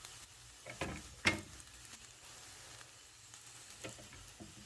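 Sliced onions frying in oil in a pan, a faint steady sizzle, with a few sharp knocks about a second in as green chilies go into the pan.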